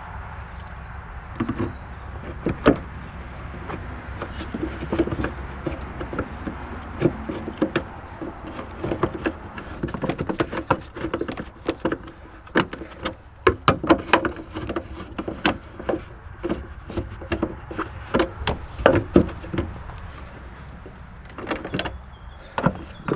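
A busy run of short clicks, knocks and rattles, like parts and tools being handled, over a steady low hum.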